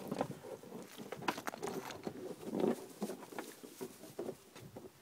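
Mastiff puppies moving about and playing, making irregular pattering and clicking from their paws, with small puppy noises mixed in.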